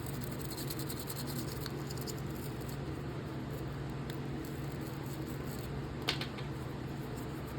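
Small nylon-bristle brush scrubbing a folding knife to work debris out, a quick run of scratchy strokes for the first two or three seconds, then quieter, with one sharp click about six seconds in. A steady low hum runs underneath.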